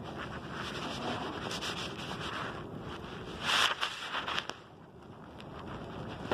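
Wind buffeting the microphone over water noise on a kayak, with scattered small knocks. A louder rush comes about three and a half seconds in, then the wind eases for a moment.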